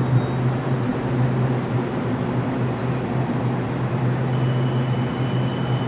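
Passenger train pulling into a station, with a steady low rumble and hum throughout. A thin high-pitched tone sounds for about a second and a half near the start, and a lower thin tone comes in near the end.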